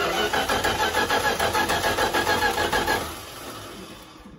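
Starter cranking the 1978 Dodge pickup's engine in an even, rhythmic chug for about three seconds. The engine never catches, and the cranking then slows and fades out. The engine is flooded with gas.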